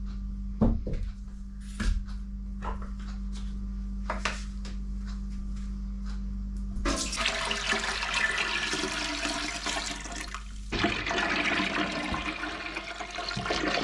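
A few light knocks and clinks of kitchen things, then liquid poured out in two long, rushing pours.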